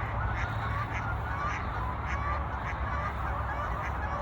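A flock of geese honking, short calls repeating several times a second, over a steady low rumble.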